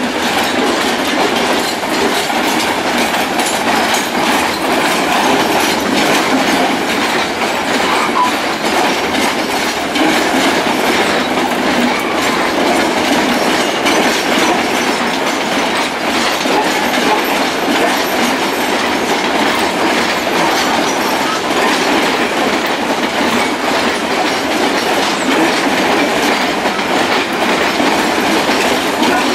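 Loaded coal freight wagons rolling past on steel rails, with a steady clickety-clack of wheels over rail joints and switches.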